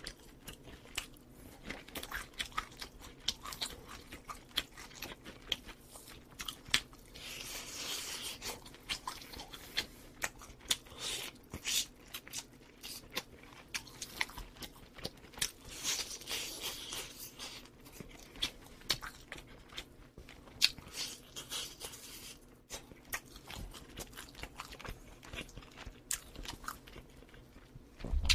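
Close-miked chewing and biting into baked chicken: a dense run of short mouth clicks, with louder spells of chewing about eight, sixteen and twenty-one seconds in.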